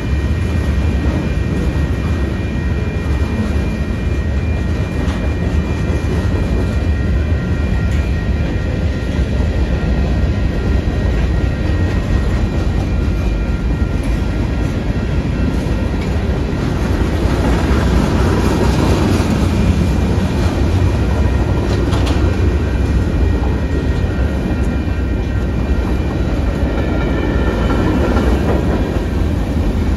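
A train passing: a loud, steady rumble, with a few faint, steady high tones above it.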